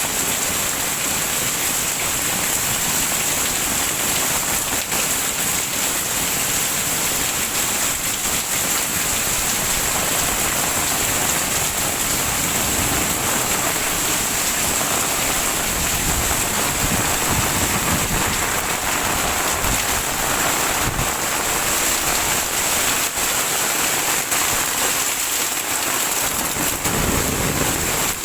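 Heavy rain falling steadily and spattering on surfaces, with low thunder rumbles about halfway through and again near the end.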